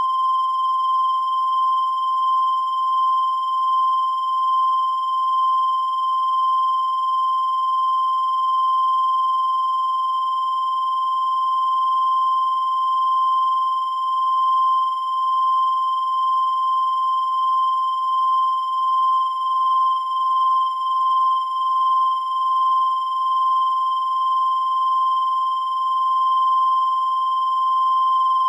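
A continuous high-pitched electronic tone at about 1 kHz, held without a break, with thin buzzy overtones above it and a slight waver in its loudness.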